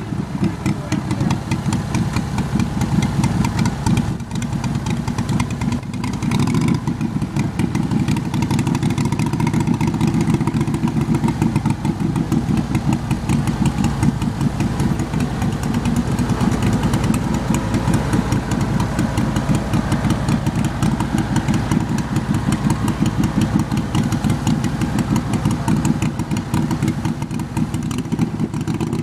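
Garden tractor engine running loudly and steadily, its fast firing pulses continuous throughout, with a brief dip in level about four to six seconds in.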